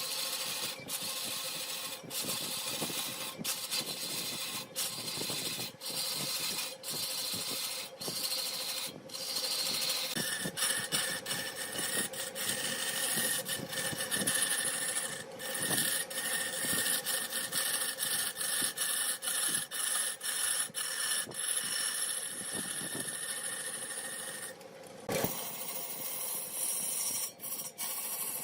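Wood lathe running while a turning tool scrapes and cuts the spinning wood, a continuous rasping with a steady hum underneath and many brief breaks.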